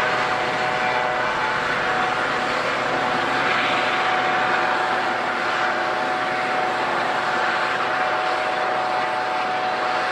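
Airliner engines running steadily: a broad rush with several steady whining tones held at an even pitch.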